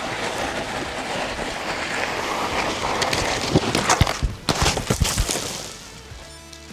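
Loaded mountain bike riding over rough trail: a steady rush of tyre and wind noise with several sharp knocks and rattles around the middle, then it drops away near the end. Background guitar music runs underneath.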